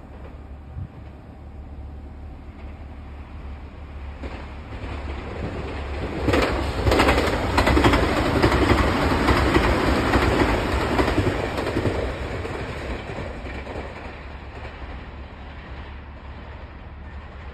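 A Keio electric commuter train passes close by. The rumble and wheel clatter on the rails build over a couple of seconds, stay loudest for about five seconds, then fade away.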